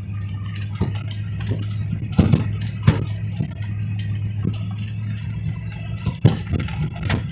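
A 1991 Ford F-150's 5.0-litre V8 running steadily while driving through snow, with several sharp knocks and clunks from the truck jolting over the rough road.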